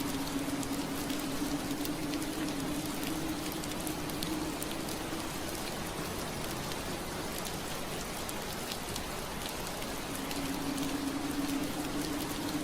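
Steady rain on window glass, an even hiss with scattered drops tapping. Under it runs a low steady hum that fades out about four seconds in and comes back near the end.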